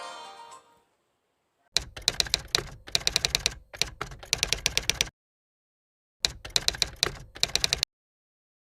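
A tail of background music fades out in the first second. Then come rapid key clicks of typing in two runs: the first about three seconds long with short breaks, the second about a second and a half.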